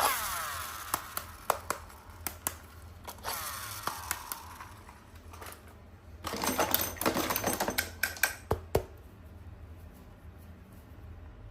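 Small toys and packaging being handled: scattered sharp clicks and taps, two brief fading whirrs near the start and about three seconds in, and a dense flurry of clicking and rattling between about six and eight seconds.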